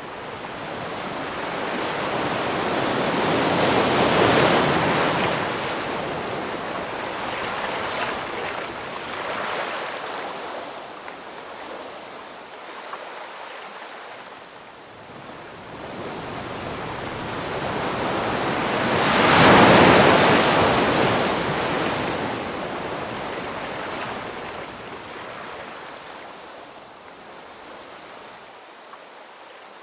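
Ocean surf: waves break and wash in, then ebb away. Two large waves crest about four seconds in and again near twenty seconds, with smaller surges between them.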